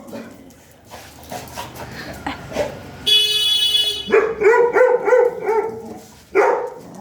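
A dog barking: scattered barks, then a quick run of barks about four seconds in. Just before the run there is a brief high whistling tone.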